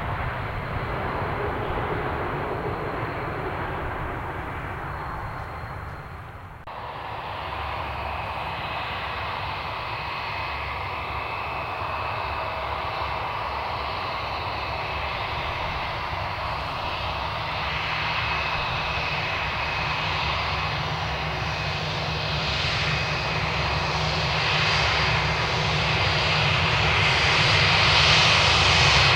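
Airliner jet engines running close by: a steady rush with a high whine, cutting out briefly about six seconds in, then growing louder toward the end.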